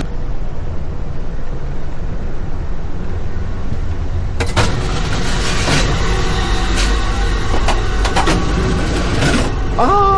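Running noise inside a moving Amtrak Superliner car: a steady low rumble, with sharp clanks and rattles starting about four seconds in.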